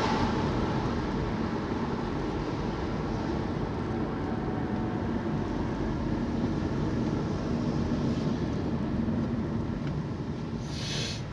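Steady engine and road noise heard from inside a moving car, a low rumble with a faint hum, and a short hiss near the end.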